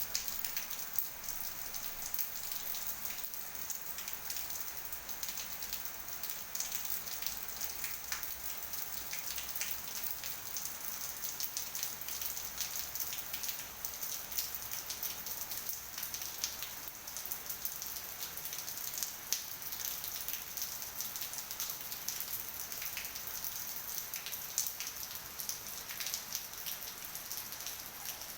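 Steady rain falling, with many separate drops heard as sharp ticks over a continuous hiss.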